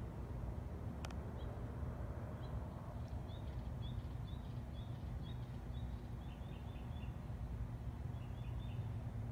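A small bird gives a series of short, high chirps over a steady low rumble, with one sharp click about a second in.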